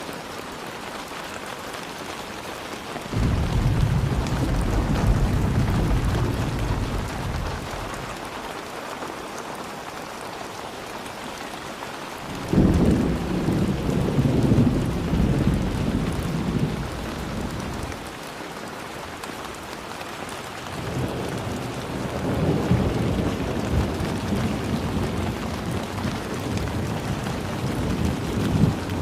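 Steady rain with three rolls of thunder. The first rumbles in a few seconds in and fades. The second starts suddenly, sharper, a little before halfway. The third builds more slowly over the last third.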